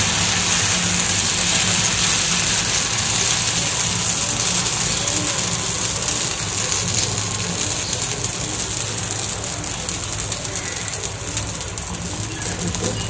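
Dosa batter sizzling on a hot oiled iron griddle, a steady hiss, with a steady low hum underneath.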